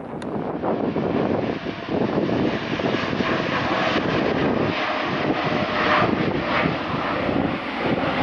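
Jet airliner's engines at takeoff power: a steady, loud rush with a faint whine, swelling in its higher range midway.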